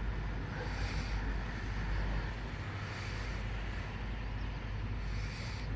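DPKr3-005 diesel multiple unit running, a steady low drone with a hiss that swells every two to three seconds; the typhon horn is not sounding.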